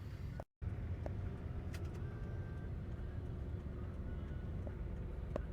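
Motorcycle engine running steadily while riding, a low rumble with a few faint clicks. The sound cuts out completely for a split second about half a second in.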